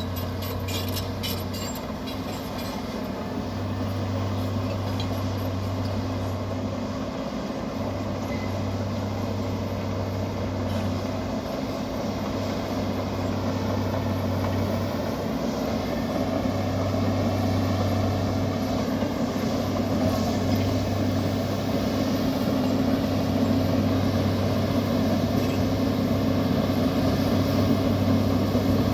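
Bulldozer's diesel engine running, with a low drone that comes and goes every few seconds and grows louder toward the end.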